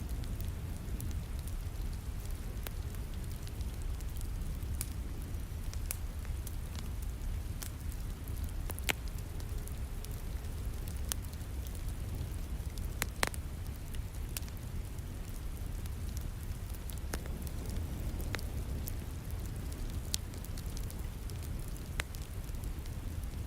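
Wood fire crackling in a fireplace, with irregular sharp pops, the loudest about 13 seconds in, over the steady rush of falling rain.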